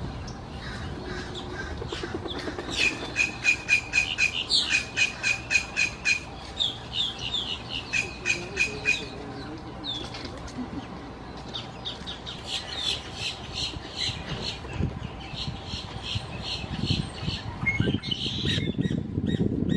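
A backyard bird calling: quick runs of short, harsh repeated notes, about four a second, in two bouts. A low rumble rises near the end.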